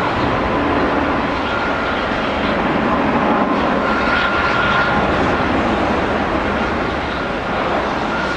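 Jet airliner engines heard at an airport: a steady rush of jet noise with a faint high whine that comes and goes.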